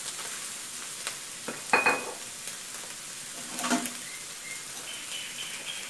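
Sesbania flowers, egg and pork sizzling in a wok just after light soy sauce goes in: a steady frying hiss. There are two sudden louder clatters, about two seconds in and again near four seconds.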